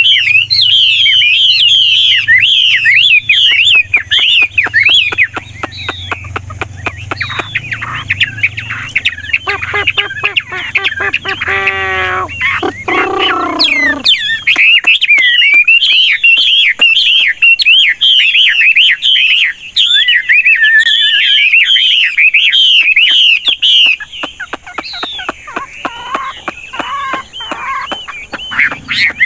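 Chinese hwamei singing a fast, varied song of warbles and constantly shifting phrases. The song thins out for a while in the middle, where a low hum and a different pitch-gliding sound with many overtones are heard, then resumes at full strength.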